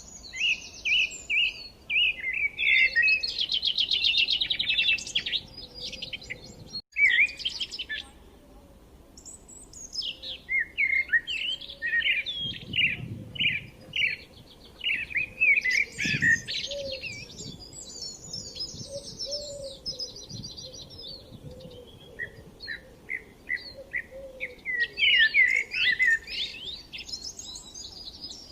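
Birds chirping and singing: a busy stream of quick high chirps and rapid trills, with a momentary break about seven seconds in.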